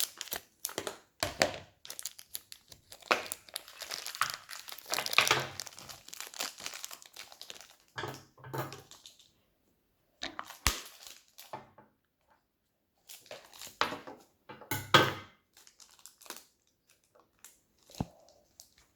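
Plastic toy blind-pack packaging crinkling and tearing as it is handled and opened, in irregular bursts. About halfway through it goes quiet apart from one sharp click, then the crinkling picks up again.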